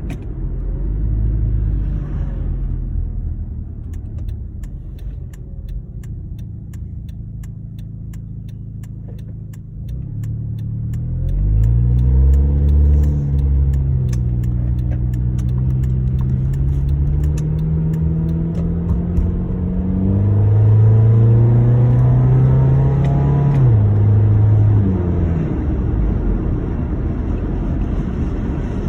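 2009 Honda Accord engine and exhaust under acceleration, the car having an intake and exhaust leak. The engine note rises steadily, drops suddenly about twenty seconds in, climbs again, and drops once more near twenty-four seconds, as at upshifts.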